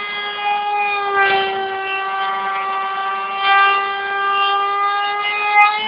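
CNC milling machine's spindle running with a steady high whine rich in overtones while it mills a test cut. The pitch sags slightly about a second in, as if under cutting load, with brief bursts of cutting noise over it.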